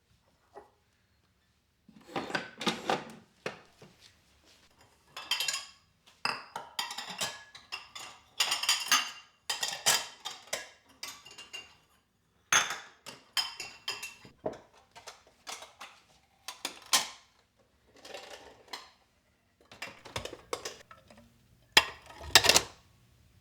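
Dishes and cutlery clattering and clinking as they are handled in a kitchen, in irregular bursts that start about two seconds in.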